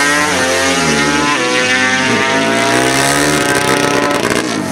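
Racing engine accelerating hard, its pitch climbing and dropping sharply at gear shifts a little over a second in and about two seconds in, then falling away near the end.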